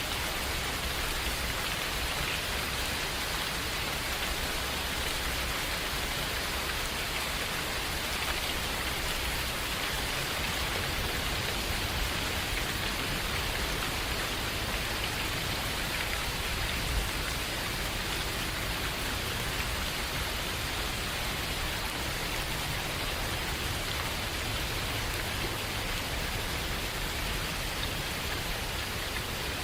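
Steady rain falling, an even hiss of drops without letting up.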